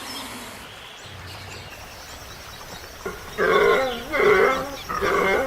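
An animal calling over and over in loud pitched calls of about half a second each, beginning about three seconds in after a quieter stretch.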